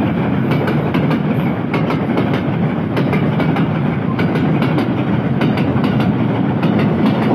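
Empty oil tank wagons of a freight train rolling past close by: a steady rumble of steel wheels on the rail, with rapid clicks as the wheels cross the rail joints.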